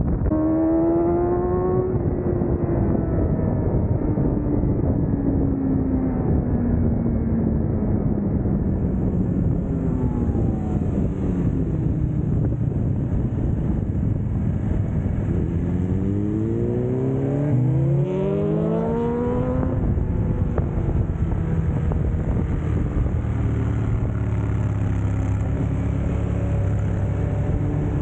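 Motorcycle engine on a track lap, heard over heavy wind noise. The revs rise at the start, fall away over several seconds as it slows, then climb steeply again about two-thirds of the way through before dropping back and running more steadily.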